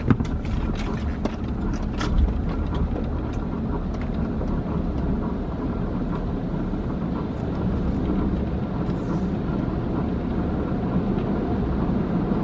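Automatic car wash heard from inside the car: a steady low rumble with a haze of noise, and a scatter of sharp clicks and knocks in the first few seconds.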